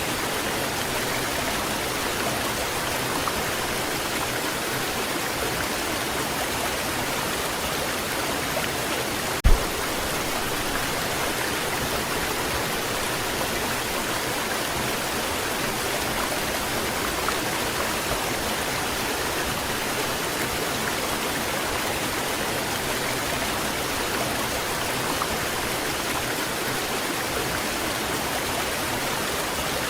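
Waterfall rushing steadily, an even hiss of falling and splashing water. A single brief low thump about a third of the way through.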